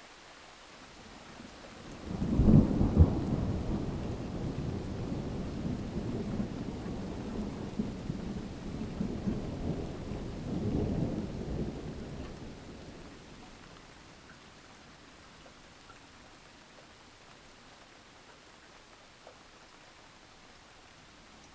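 A rolling thunderclap over steady rain: the rumble breaks sharply about two seconds in, rolls on with a second swell about ten seconds later, then fades out, leaving the soft hiss of falling rain.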